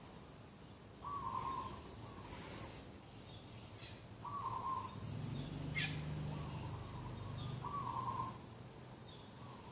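Dove cooing, a short call repeated about every three seconds, three times. Small birds chirp faintly, a sharp click comes near the middle, and a low hum runs through the middle few seconds.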